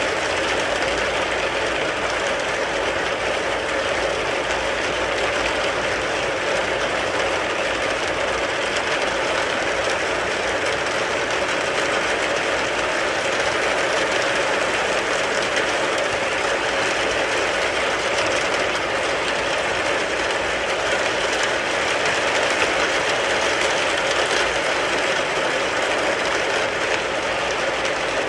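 Steady rain falling on a car, an even, unbroken patter that holds the same strength throughout.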